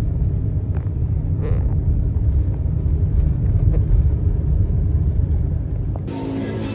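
Steady low rumble of a road vehicle on the move, the noise of the ride filling the low end. It gives way abruptly near the end to music.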